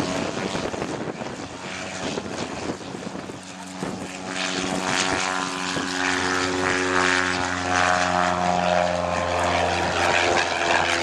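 Propeller drone of Van's RV-8 light aircraft flying a display. The engine note holds a steady pitch and grows louder from about four seconds in as the aircraft comes closer.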